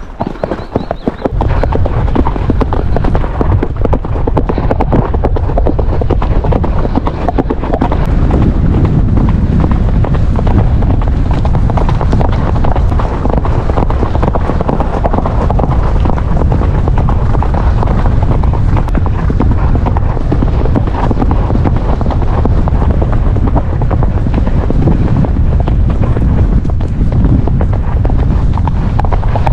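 Horses cantering, their hoofbeats soon buried under loud wind buffeting the action camera's microphone, which takes over about a second in and stays.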